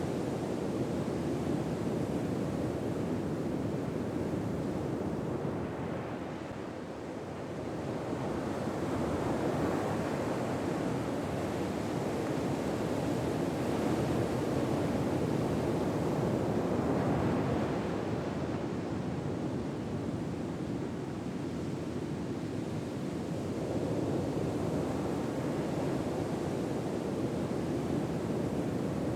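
Ocean surf washing in slow swells, rising and easing over several seconds at a time.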